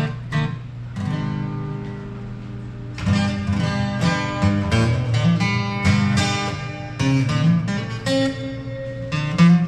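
Acoustic guitar strummed: one chord rings out about a second in, then from about three seconds in a run of strummed chords with picked bass notes.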